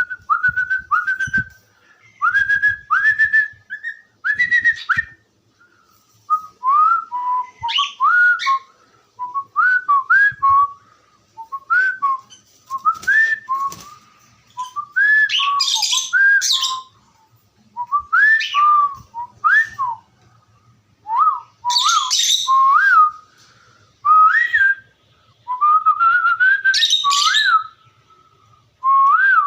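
Cockatiel whistling in short phrases of rising and falling notes, with harsher chirps mixed in, repeated every second or two with brief pauses.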